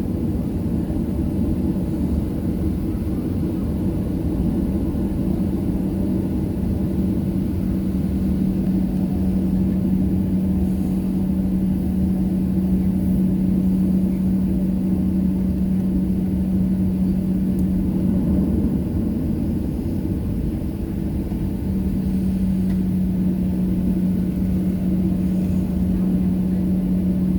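Steady low rumble and hum inside a Boeing 737-700 cabin at the gate, from the aircraft's running air and engine systems. One steady hum fades out for a couple of seconds about two-thirds of the way through, then comes back.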